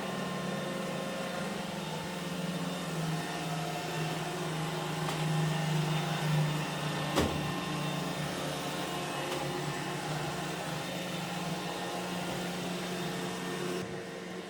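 iRobot Roomba e5 robot vacuum running, a steady motor and brush hum, with a single sharp knock about seven seconds in. The hum gets quieter just before the end.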